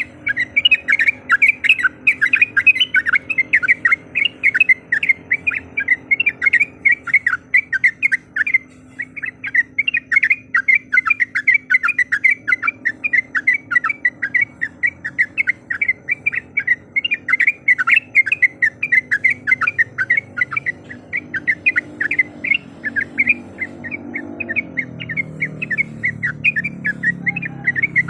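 Yellow-vented bulbul calling: a fast, continuous chatter of short sharp notes, the excited 'gacor' calling used as a lure to rouse rival birds. A low hum runs underneath and grows louder near the end.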